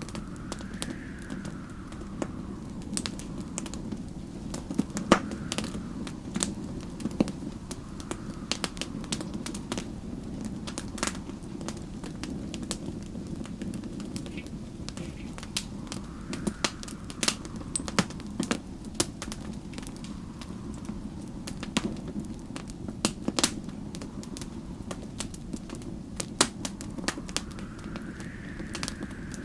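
Wood fire crackling with many sharp pops over a steady low rumble, while snowstorm wind whistles in a rising and falling gust three times: about a second in, midway, and near the end.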